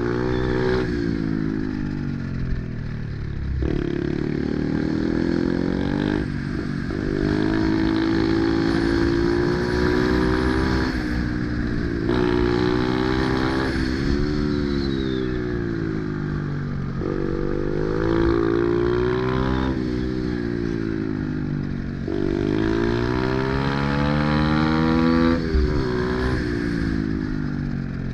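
Pit bike's single-cylinder four-stroke engine running hard under way, its pitch climbing and dropping back again about eight times as the rider opens and closes the throttle.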